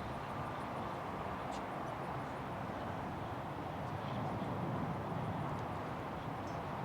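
Distant jet engines of a taxiing Boeing 777: a steady low rumble that grows slightly louder about halfway through.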